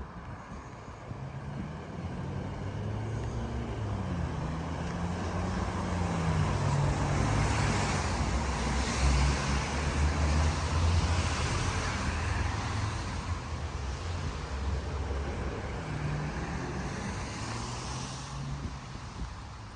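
A motor vehicle driving past on a wet road: its engine hum grows, peaks in the middle, then fades, with the pitch stepping and gliding, and the tyres hissing on the wet asphalt.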